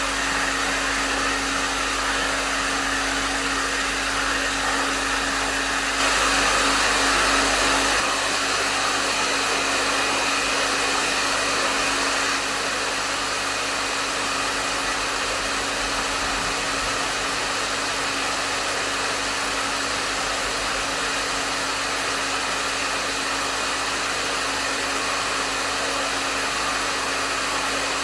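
Hair dryer running steadily at medium setting: a constant rush of air over a steady low motor hum. It gets briefly a little louder about six seconds in.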